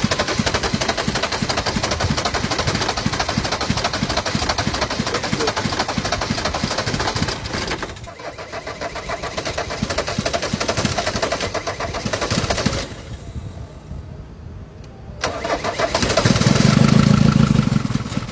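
Old diesel engine being cranked over on a hard cold start, a rapid, regular knocking beat that falters and dips in level partway through. About sixteen seconds in it fires and runs with a louder, deep steady note.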